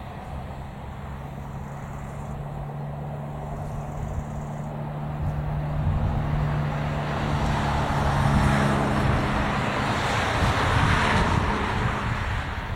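ČD class 843 diesel railcar running past, its engine humming steadily while the rolling noise of the wheels and rails builds to a peak about eight to eleven seconds in, then eases off near the end.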